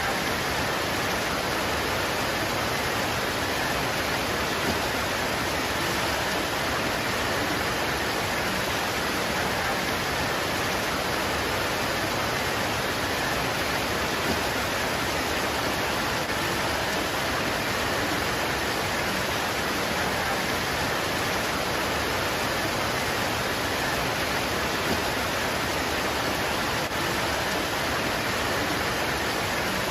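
Steady rain pouring onto leaves, an even hiss of countless drops with no single drop standing out.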